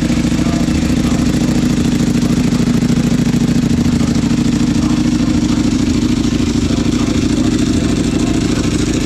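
Motorcycle engine running steadily near idle, its pitch rising slightly and settling back around the middle.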